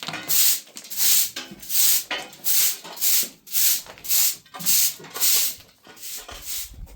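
Rhythmic brushing strokes of bristles scraping across a surface, about three every two seconds, as in sweeping or scrubbing; the strokes grow weaker near the end.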